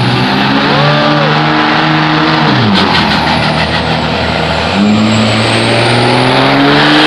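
Diesel engine of a pulling vehicle at a truck and tractor pull running hard at high revs under load; its pitch drops sharply about two and a half seconds in, stays low for a couple of seconds, then climbs back up and holds.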